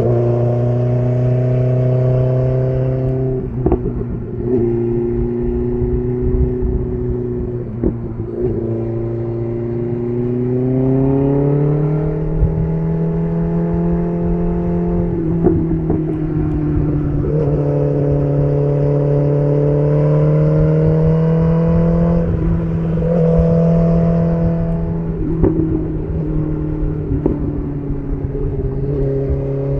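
BMW S1000RR inline-four running through an SC Project CR-T titanium exhaust while being ridden. The revs rise and fall, the pitch stepping up and down abruptly a few times.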